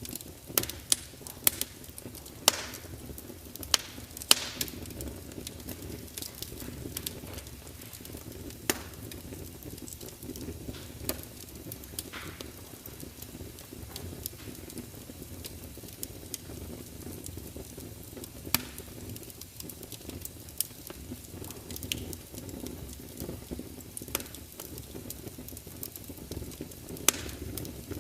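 Wood fire burning in a large fireplace: a steady low rumble of flames with irregular sharp crackles and pops from the logs, a few of them louder spits.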